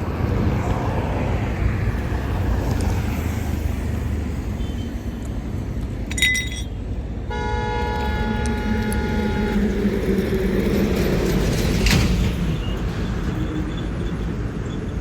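Road traffic running with a steady low rumble of engines. A short horn toot comes about six seconds in, followed at once by a two-toned horn blast of about two seconds.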